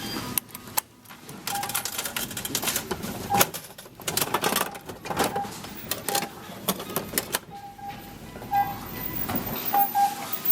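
Hard plastic pieces of a capsule toy clicking and rattling as they are handled, in quick irregular clicks that thin out near the end, over soft background music.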